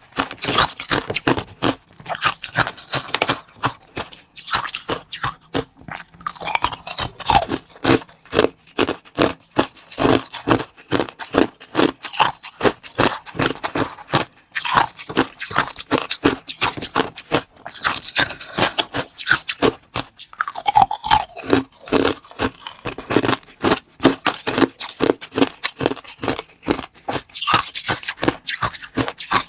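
Close-up crunching and chewing of food: many sharp crunches in quick succession, with bites and scrapes.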